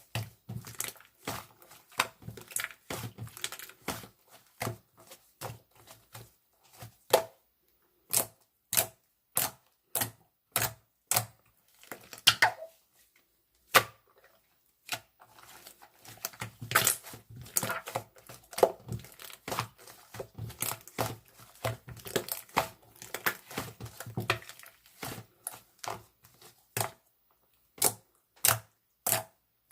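Irregular sharp clicks and taps, one to a few a second, with light crinkling and rustling between them: small objects, likely paper, being handled close up. A faint steady hum sits underneath.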